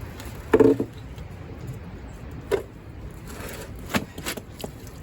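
Workshop handling noises while the engine is being moved: a short pitched scrape or groan about half a second in, the loudest sound, then three sharp knocks, two of them close together near the end.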